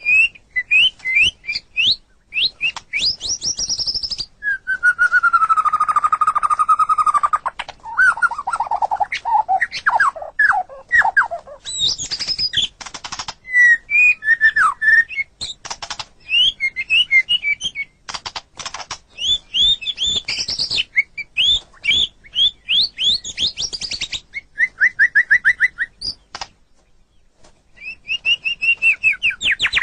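White-rumped shama (murai batu) singing a varied song of whistled phrases, quick chirps and trills, with rising and falling glides, a long falling whistle about five seconds in, and a brief pause near the end.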